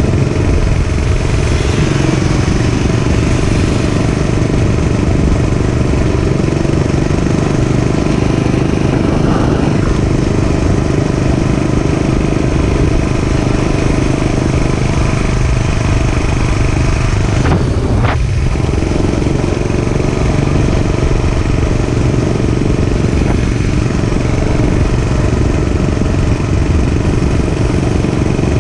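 Dirt bike engine running steadily under way, with one brief sharp sound about eighteen seconds in.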